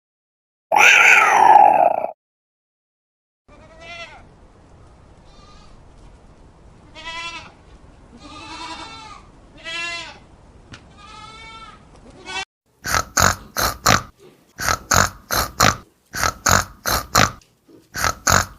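A series of animal calls: one loud call about a second in, then several wavering bleats over a faint hiss, then rapid short grunts in runs of three or four.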